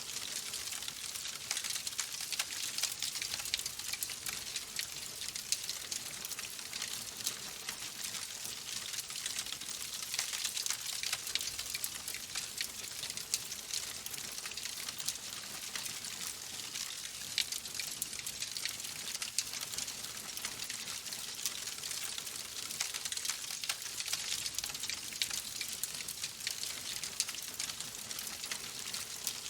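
Log fire in a fireplace crackling steadily: a dense run of small pops and snaps over a soft hiss.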